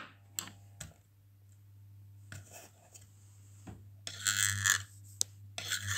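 Homemade mains transformer used as a screwdriver demagnetizer, humming steadily and low. Short clicks and scrapes of metal being handled sit over the hum, with a louder rasping scrape just past the middle.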